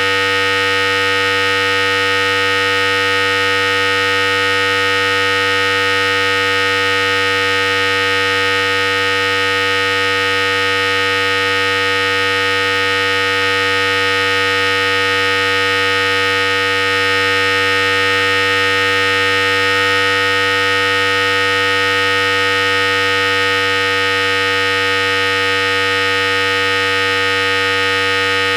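Philips Series 5000 hair clipper running continuously with a steady, even electric buzz.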